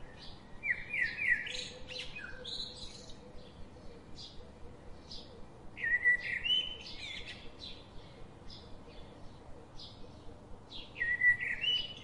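Songbird singing: a quick phrase of bright chirps comes near the start, again about six seconds in and again near the end, with short single chirps between.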